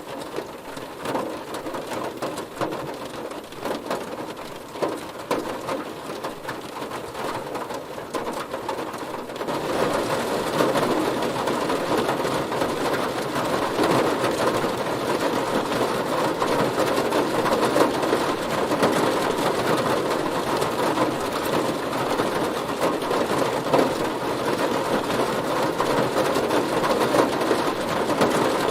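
Heavy rain drumming on a car's body in a dense, steady patter, which grows louder and heavier about nine seconds in.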